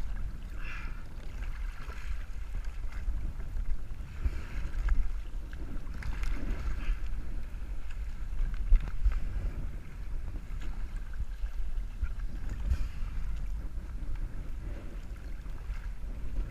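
Strong wind buffeting the microphone in a steady low rumble, over water sloshing and rushing against the hull of a Hobie Adventure Island sailing kayak, with one sharp knock about halfway through.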